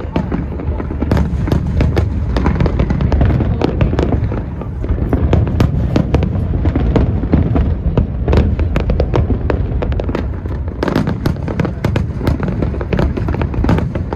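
Large aerial fireworks display in a continuous barrage: rapid sharp reports and crackling over a steady deep rumble of overlapping bursts.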